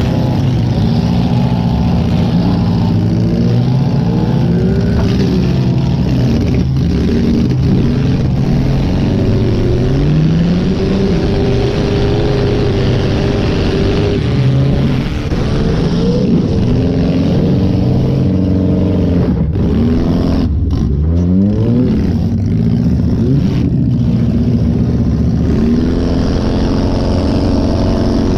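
Chevy Lumina demolition derby car's 2.5-litre Iron Duke four-cylinder engine, heard from inside the car, revving up and dropping back over and over as the car accelerates and changes direction.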